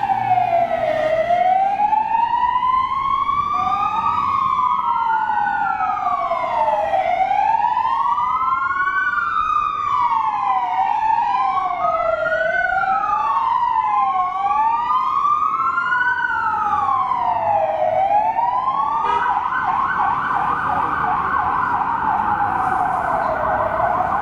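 Two fire-service sirens wailing out of step with each other, each rising and falling slowly in pitch. About 19 s in, one switches to a fast yelping warble while the other keeps wailing.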